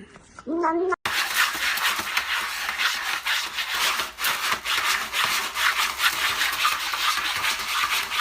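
A cat's yowl cut off about a second in, then steady, rapid scratching or rubbing on a hard surface, many quick strokes.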